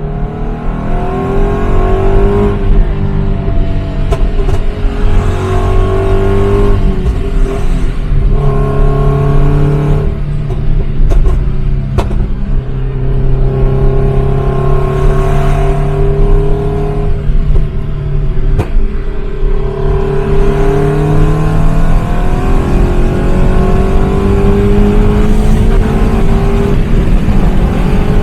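Toyota GT86's 2.0-litre flat-four boxer engine heard from inside the cabin while driving, its note holding or climbing and then dropping at gear changes. A few sharp cracks stand out over the engine, the pops and crackles of its exhaust tune.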